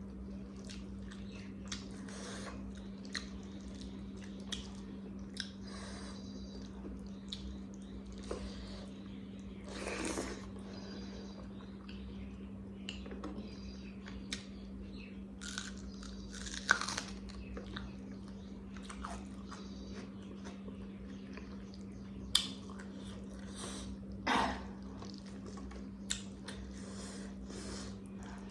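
A person chewing and biting food close to the microphone, mukbang-style, from a meal of chicken curry and bitter gourd with potato, with scattered small clicks and a few sharper ones. A steady low hum runs underneath.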